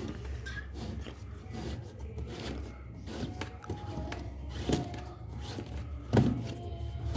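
Scattered clicks and light knocks, with one louder knock about six seconds in, over a steady low hum.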